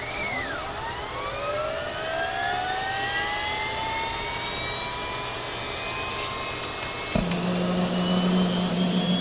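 Helicopter turbine engine spooling up: a whine that rises in pitch and levels off over several seconds. A steady low hum sets in suddenly about seven seconds in.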